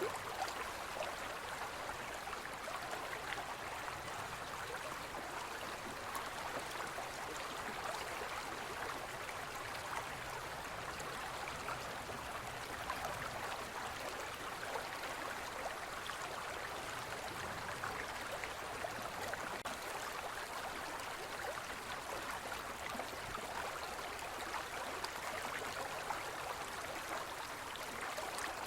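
Forest stream flowing steadily, an even rush of water with small splashes and gurgles through it.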